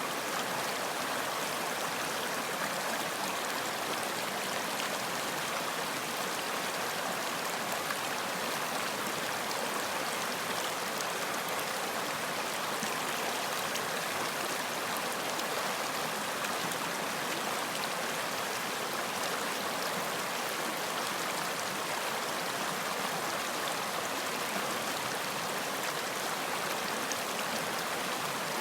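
Running water flowing steadily, an even splashing rush like a stream.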